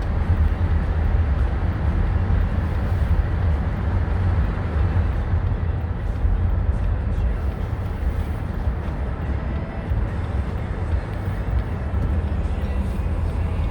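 Steady low rumble of a car driving on a snowy highway, with road and engine noise heard from inside the cabin.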